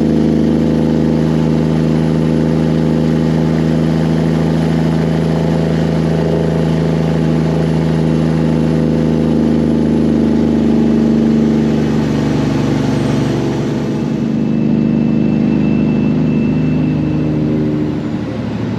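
Heavy truck's diesel engine running steadily under way, with a steady engine drone that eases slightly in pitch and level about twelve seconds in.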